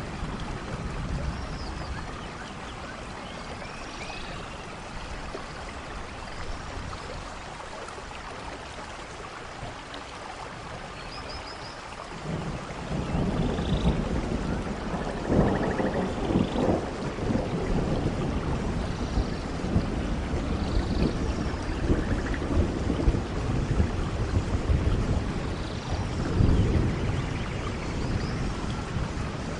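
Rain falling steadily on forest leaves and ground. A low rumble swells in about halfway through and stays, and faint high-pitched chirps come here and there.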